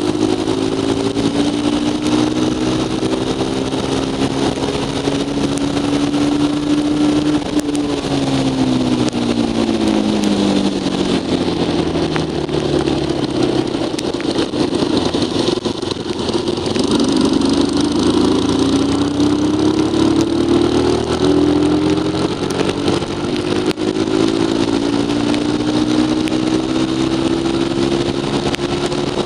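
Yuki 150 cc motorcycle engine running at speed over a steady rushing noise. The engine note drops about eight seconds in as the bike slows, then climbs again from around seventeen seconds and holds steady.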